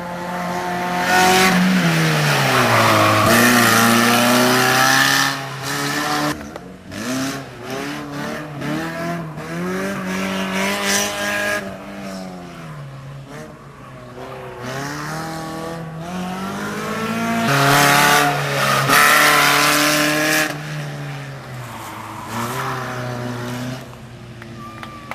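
SEAT Cordoba SX rally car driven flat out, its engine revving up and dropping back again and again through gear changes and braking. It is loudest as it passes close about a second in and again about 17 seconds in.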